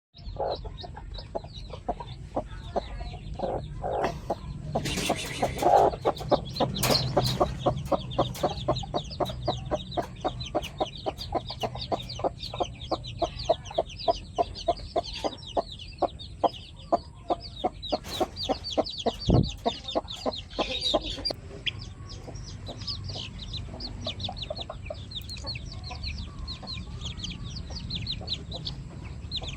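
A flock of chickens clucking in a rapid run of short calls, several a second, with many short high-pitched calls from the birds, thickest near the end.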